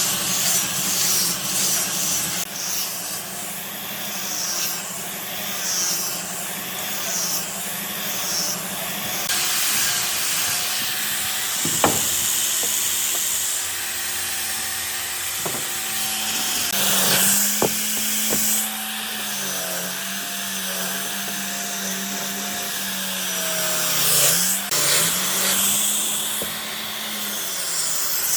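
A power tool working wood: a motor hums steadily, its pitch dipping and recovering under load in the second half, beneath a constant hiss of the tool cutting or sanding the wood. In the first few seconds the hiss comes in even strokes about once a second.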